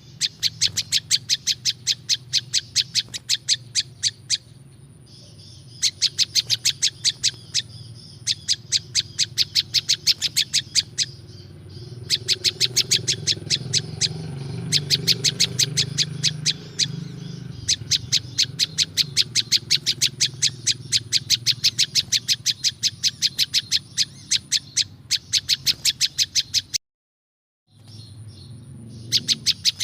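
Prenjak lumut songbird calling in rapid, even series of sharp chirps, several a second, in bouts of a few seconds separated by short pauses. The sound cuts out completely for about a second near the end.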